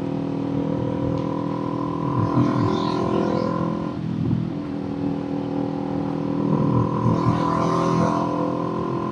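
Kawasaki Z400 parallel-twin engine running under way, heard from the rider's seat. Its steady note drops about four seconds in, then climbs gradually again as the bike picks up speed.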